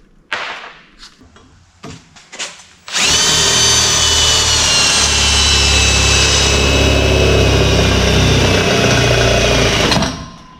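Handheld electric power tool running at full speed for about seven seconds, starting about three seconds in with a high whine that sags slightly in pitch before it stops. A few light handling clicks come before it.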